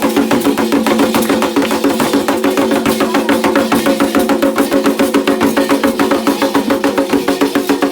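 Candomblé ritual music: hand drums keep a fast, even beat with sharp clicking percussion over sustained pitched tones.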